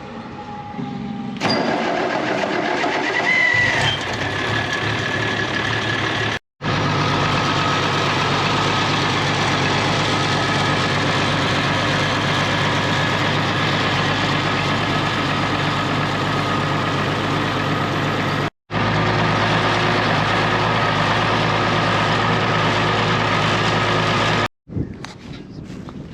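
An engine running steadily, the sound broken off abruptly three times.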